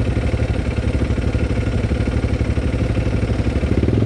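Off-road vehicle engine idling steadily with an even, rapid pulse.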